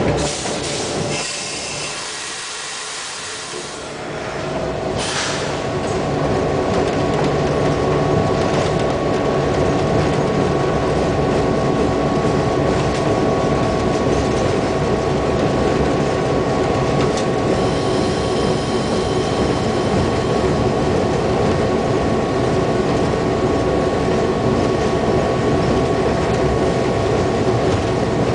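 Diesel locomotive of the Skunk Train rolling along the track, heard from its cab: steady running noise of engine and wheels on rail, quieter for a few seconds at first and then holding level. A brief high wheel squeal comes about two-thirds of the way through.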